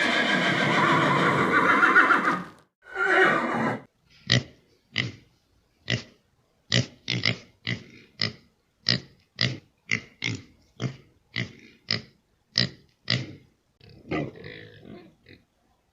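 Farm animal calls: a long, loud call, then from about four seconds in a steady run of short, sharp calls about two a second.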